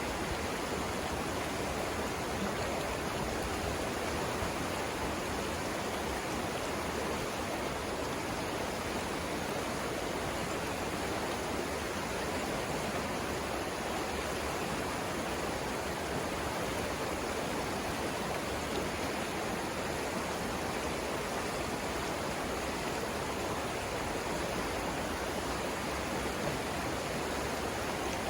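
Flowing river water rushing steadily, an even, unbroken rush with no distinct splashes.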